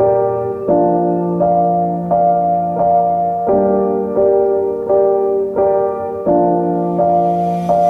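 Piano music: sustained chords, with a new chord or note struck about every three-quarters of a second.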